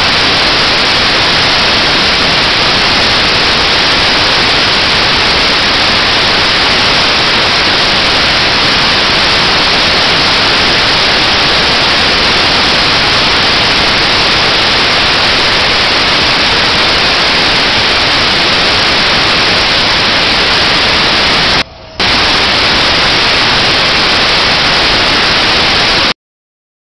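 Pulling tractor's engine running under full load, so loud that it overloads the microphone into a flat, distorted hiss with no engine note left in it. It drops out for a moment near the end and then cuts off suddenly.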